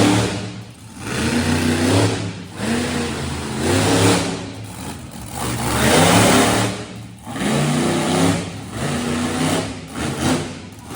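Monster truck engine revving hard in repeated surges, the pitch climbing and falling back about every two seconds.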